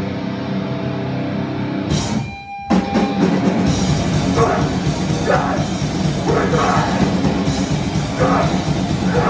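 Live hardcore punk band playing loud, with distorted guitars and a drum kit. About two seconds in the band stops for a moment, then crashes back in together.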